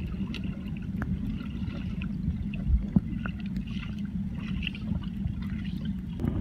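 Steady low rush of a river's running water, with a few faint clicks.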